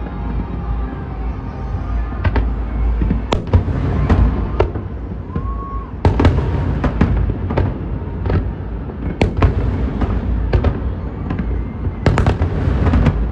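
Fireworks display: aerial shells bursting one after another at irregular intervals, sharp bangs over a continuous low rumble, with the densest volleys about six seconds in and near the end.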